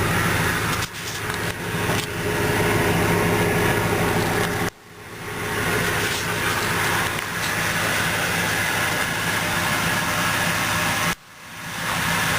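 2006 Dodge Durango's 5.7-litre HEMI V8 idling steadily. The sound cuts out abruptly a few times and swells back in each time.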